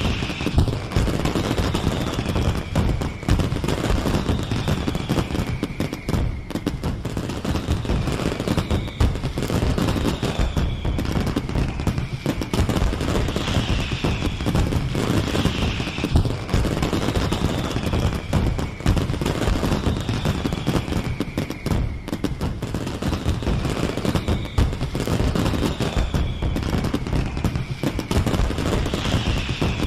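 A fireworks display with a continuous, dense crackle of rapid bangs and pops. A high falling whistle-like tone recurs every second or two over it.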